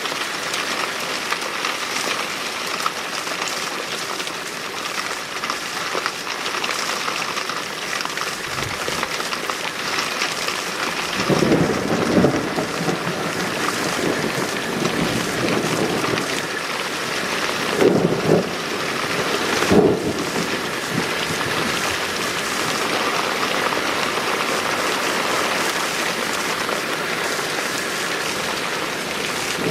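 Steady heavy rain falling during a thunderstorm, with thunder rumbling through it about a third of the way in and twice more a little past the middle.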